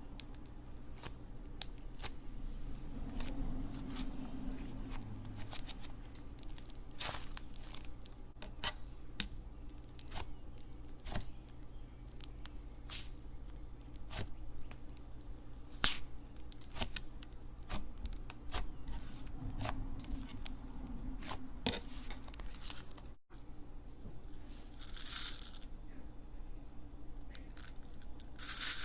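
Slime being squeezed and stretched by hand, giving many small sharp crackling pops throughout, with a short louder hissy stretch about 25 seconds in.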